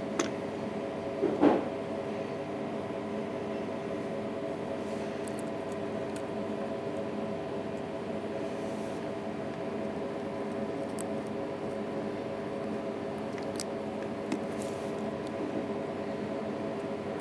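A steady mechanical hum made of several low fixed tones, with a few light clicks and taps over it. The loudest is a knock about one and a half seconds in.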